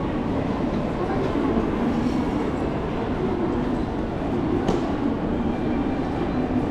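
Steady rumble and rush of a Shinkansen train running, with one brief click about four and a half seconds in.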